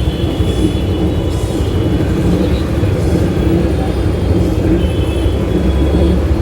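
Steady rumble of wind and road noise on the microphone while riding a Bajaj Chetak electric scooter, with no engine note.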